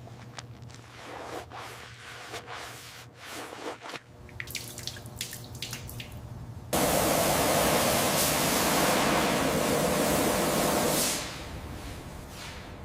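Scattered small clicks and drips, then a loud, steady spraying hiss that starts abruptly about two-thirds of the way in and cuts off about four seconds later.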